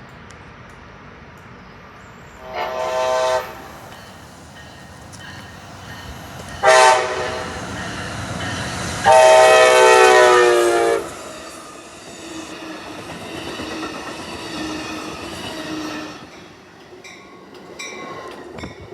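Train horn sounding three blasts, two short and a longer one of about two seconds, over the steady rumble of the train.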